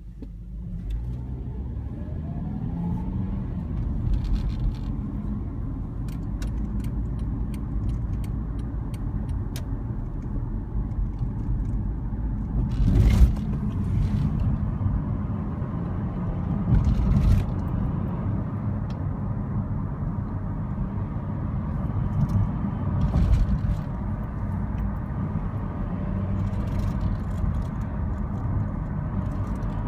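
Long Island Rail Road M7 electric train running by with a steady low rumble. A rising whine comes in the first few seconds, and there are several louder bangs later on.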